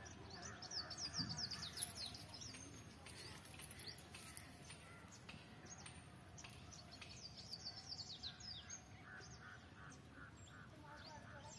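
Birds chirping and calling: clusters of quick, high, downward-sweeping chirps, and a run of repeated lower notes, about four a second, about eight seconds in.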